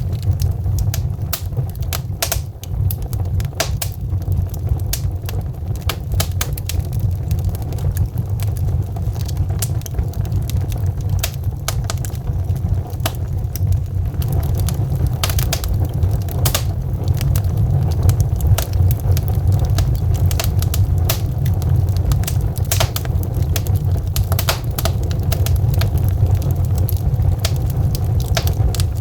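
Logs burning in a wood fireplace: a steady low rumble of the flames with frequent, irregular sharp crackles and pops.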